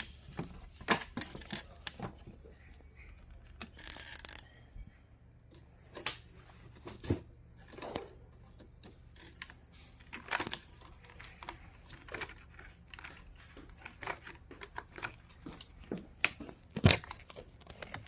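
Irregular clicks, taps and short rustles of plastic connectors and wiring being handled and pushed into place inside an LG dishwasher, with a few sharper knocks.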